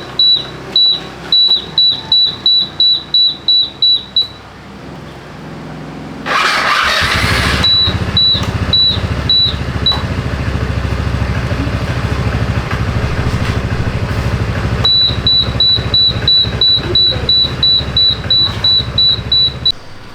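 Scooter's electronic beeper chirping about three times a second. About six seconds in comes a short burst as the starter turns the repaired SYM Attila's engine, which catches on the button and runs steadily, with the beeping returning over it.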